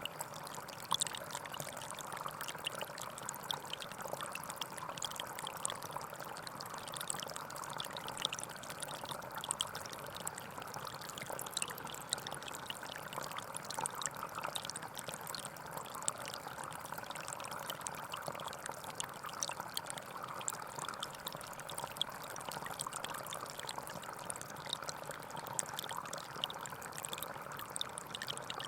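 Gentle forest stream flowing steadily: a continuous babble of running water with many small splashing ticks.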